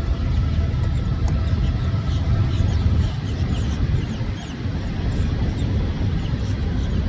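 Low rumble of a passing train, easing off, with small birds chirping over it.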